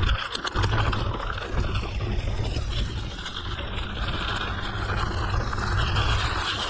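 Wind rumbling on the microphone over the steady crunch and hiss of mountain-bike tyres rolling on a gravel forest road, with a few short crackles in the first second.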